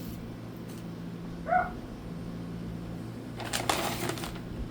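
A short cat meow about a second and a half in, then about a second of crinkly rustling, over a steady low hum.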